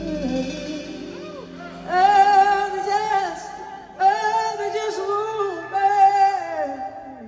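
Blues-rock song winding down: the band fades out early on, leaving one lead line holding long, wavering high notes in three phrases near the song's end.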